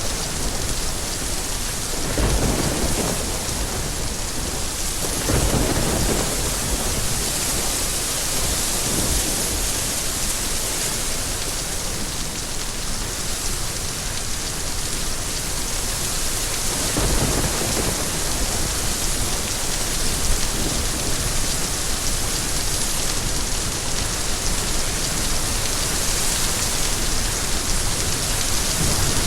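Steady heavy rain hissing, with low rumbles of thunder rolling in about two seconds in, again at about five seconds, and once more after about seventeen seconds.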